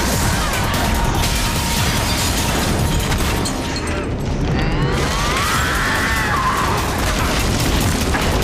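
Loud action-scene soundtrack: music mixed with booms and impacts.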